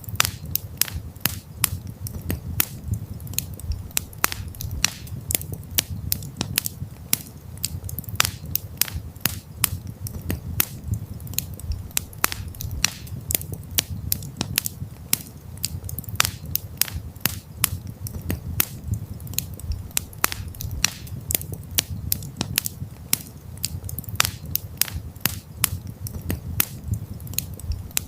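Wood campfire crackling: dense, irregular sharp pops and snaps, several a second, over a steady low rumble of the burning fire.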